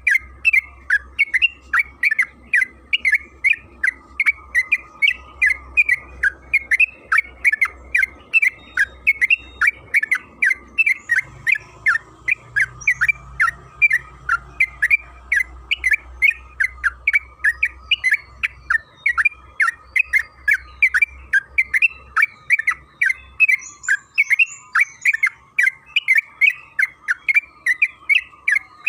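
Yellow-vented bulbul (trucukan) calling nonstop in a rapid string of short, sharp chattering notes, about three a second.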